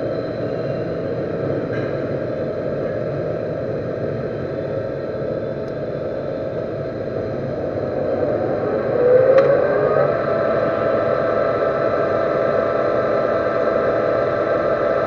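Metal lathe running, turning down a small steel shaft, a steady machine hum and whir. About nine seconds in, a tone rises in pitch and then holds at the higher note.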